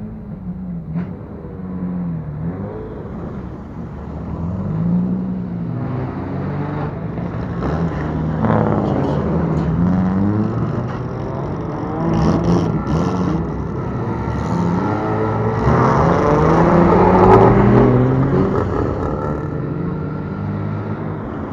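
Engines of modified Japanese show cars revving in repeated throttle blips as they roll out, the pitch rising and falling every second or two, with more than one engine heard at once. Loudest about three-quarters of the way through.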